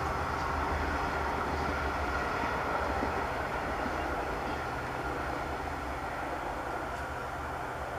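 Steady rumble of a long passenger train rolling away along the track, slowly fading.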